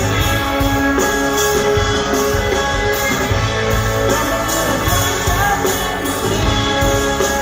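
Rock band playing a stretch of a song with no sung words: guitars over bass and drums.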